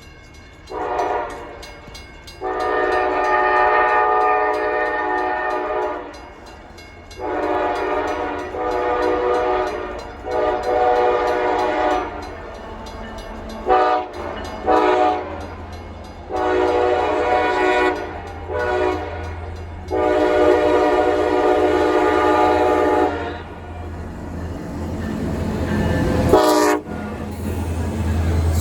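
Diesel freight locomotive horn sounding a series of long and short blasts, about nine in all. In the last few seconds a low rumble grows as the CSX locomotives draw near and pass.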